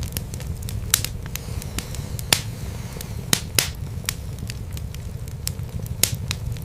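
Wood fire in a fireplace crackling: irregular sharp snaps and pops over a steady low rumble of the burning logs.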